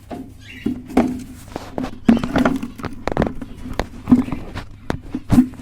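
Irregular sharp clicks and knocks, about a dozen spread unevenly, over a steady low hum.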